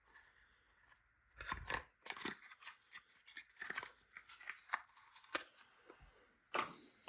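Faint crinkling of paper or cardboard packaging and light clicks of small parts being handled, in scattered short sounds that begin about a second and a half in.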